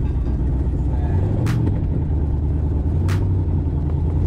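Twin-turbo Oldsmobile Cutlass engine idling with a deep steady rumble. A short sharp tick sounds about every one and a half seconds.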